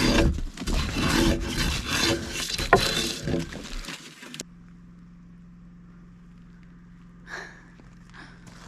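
Wooden building timber knocking and scraping as it is handled, which cuts off suddenly to a quiet, steady low hum with one short knock near the end.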